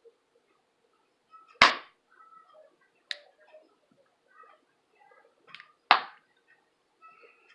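Close-miked mouth sounds of someone eating crispy bacon: three sharp crunches, about one and a half, three and six seconds in, with faint chewing and mouth clicks between.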